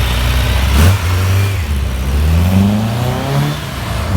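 Classic car engine accelerating away, its pitch climbing steadily as it revs, then easing off near the end. A single sharp crack sounds about a second in.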